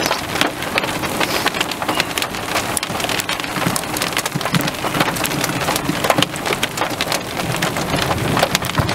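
Steady rain, with many sharp ticks of drops landing close to the microphone.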